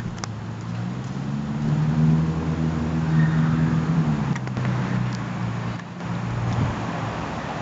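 A car engine running, its pitch rising about two seconds in and dropping back about four seconds in, with a few light clicks.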